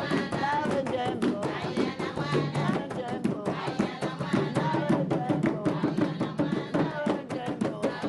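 Women singing together over a drum beaten in a quick, steady rhythm: ritual drumming and song at a women's initiation rite.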